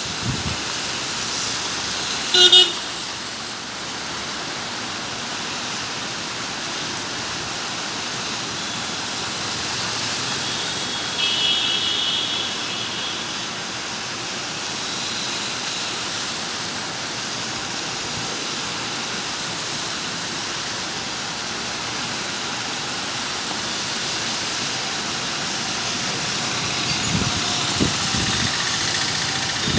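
Heavy rain falling, a steady hiss. About two and a half seconds in a short vehicle horn toots once, and around twelve seconds a fainter, higher horn-like tone sounds briefly.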